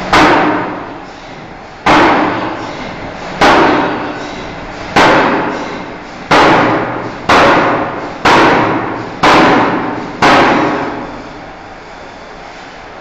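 Forging hammer striking a steel bar: nine heavy, ringing blows, about a second and a half apart at first and then quickening to about one a second, over a steady machinery hum.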